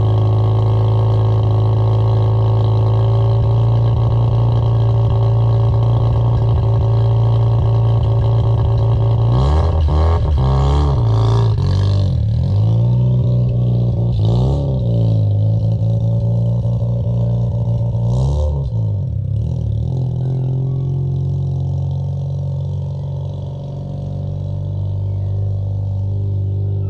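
Mazda RX-7 FC's 13B turbo rotary engine idling after a cold start. About ten seconds in comes a quick run of throttle blips, then another blip a few seconds later and one more near the middle, after which it settles back to a steady idle.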